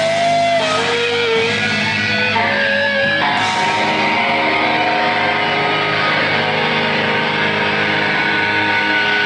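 Hardcore punk band playing live, with electric guitar prominent. Several guitar notes slide in pitch in the first few seconds.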